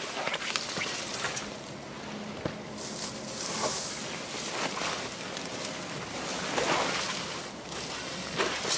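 Brushwood and twigs rustling and crackling as they are handled and packed down, with irregular small snaps and clicks.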